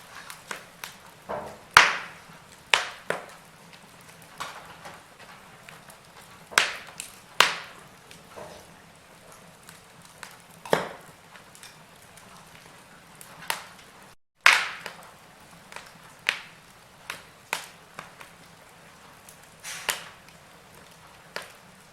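Log fire crackling: irregular sharp pops and snaps from burning wood over a faint steady hiss. The sound cuts out for a moment about two-thirds of the way through, then a loud pop follows.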